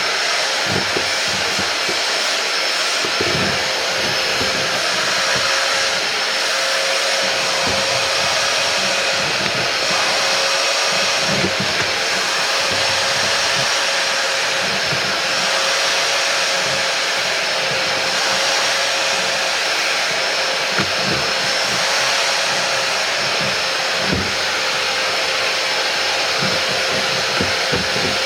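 Hoover Powerdash Go Pet carpet spot cleaner's suction motor running steadily with a constant whine, its nozzle drawing rinse water and dirt out of car floor carpet, with irregular low bumps as the nozzle is worked over the carpet.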